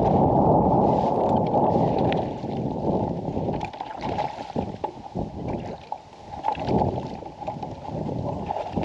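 Wind buffeting the microphone on a kayak: a dense low rumble, strong for the first two seconds and then coming in uneven gusts, with scattered light knocks and clicks.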